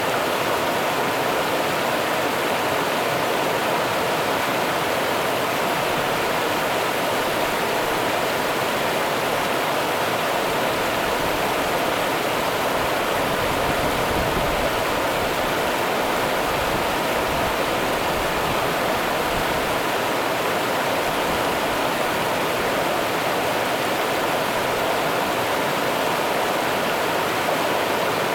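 The Rio Grande's running water: a steady, even rush of river flow with no breaks.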